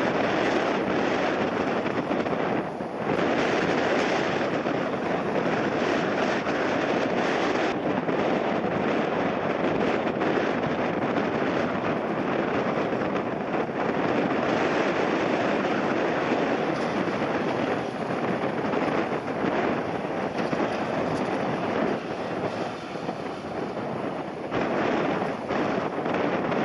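Strong gusty wind rushing over the microphone, mixed with the steady noise of jet airliners on their landing approach in a heavy crosswind.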